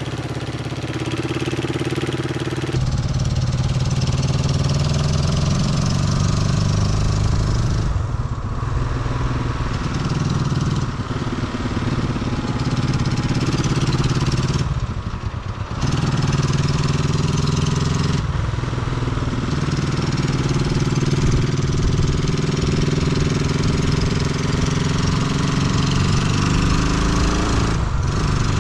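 1972 Honda CB350's air-cooled parallel-twin engine running under way, its pitch climbing as it pulls and then dropping briefly several times, as at gear changes.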